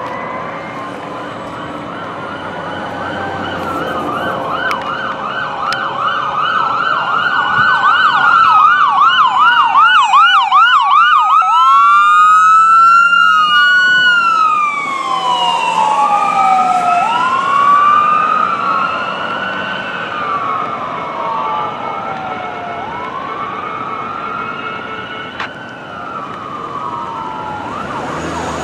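Electronic emergency sirens of a fire engine and an ambulance responding. They switch from a fast yelp to a slow rising-and-falling wail, loudest around the middle and then easing off.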